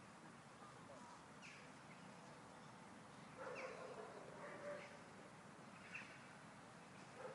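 Quiet outdoor ambience with a few short, falling bird chirps spaced a second or two apart, and a faint lower-pitched call about three seconds in that lasts over a second.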